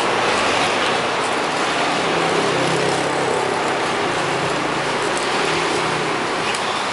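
Handheld high-speed sanding machine (about 12,000 rpm) spinning a 150-grit sandpaper disc against a cage bar, rounding it off. It runs steadily as a loud hiss with a faint motor hum underneath.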